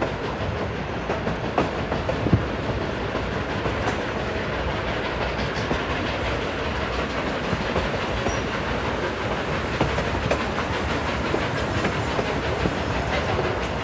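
Durango & Silverton narrow-gauge steam train running along the track, heard from aboard: a steady rumble of the rolling cars with scattered sharp clicks from the wheels and track, one louder click about two seconds in.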